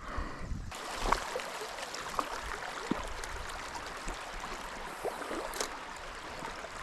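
Stream water running steadily, with scattered small ticks and splashes.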